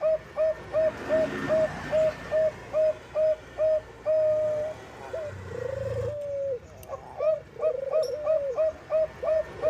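Zebra dove (Bangkok perkutut) cooing: a rapid series of short notes, about three a second, then a longer held note about four seconds in. Two lower rolling, warbling notes follow before the quick series starts again near the end.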